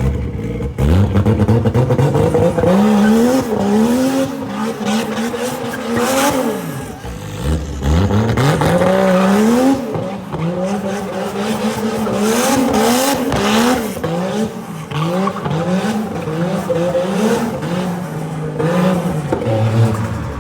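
Car engine revving hard while drifting, its pitch repeatedly climbing and dropping in quick zigzags with one long climb in the middle, over tyre noise.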